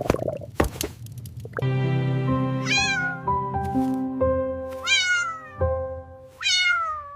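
A kitten meowing three times, each mew rising then falling in pitch, over music of held notes. There are two sharp clicks in the first second.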